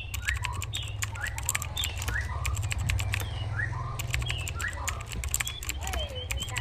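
Birds chirping in short slurred notes, two or three a second, over dense, rapid dry clicking and a steady low hum.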